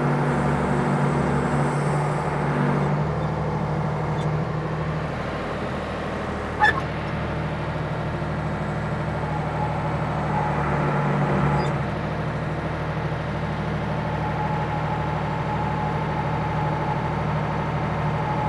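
Ford 555 backhoe's engine running steadily under work, its speed shifting a couple of times. There is a single sharp clank about seven seconds in.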